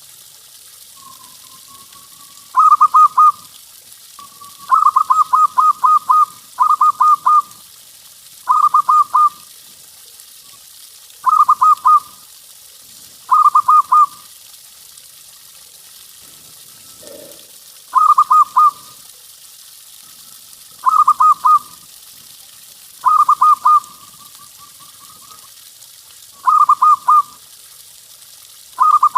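Zebra dove (perkutut) cooing: short bursts of quick, rolling coo notes repeated every two to three seconds, sometimes joined by a softer drawn-out note.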